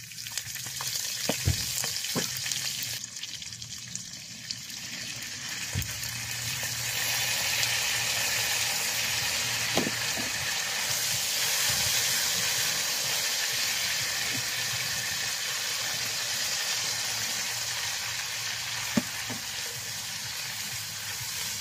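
Pork and green chili peppers sizzling in a wok as they are stir-fried, a steady hiss that grows louder about seven seconds in. A few short knocks of the metal spatula against the wok.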